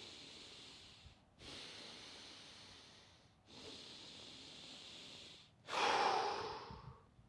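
A person doing Wim Hof power breathing: four long, deep breaths of about two seconds each, the last and loudest ending shortly before the end. These are the final breaths of a round, just before the breath hold.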